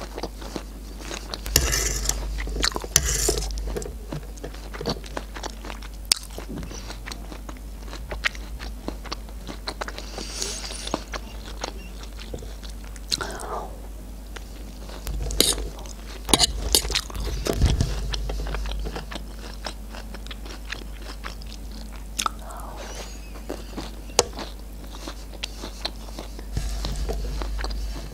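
Close-miked chewing of canned sweet corn kernels, with sharp clicks and scrapes of a metal fork on a metal tray as the corn is scooped up. The chewing comes in several bouts.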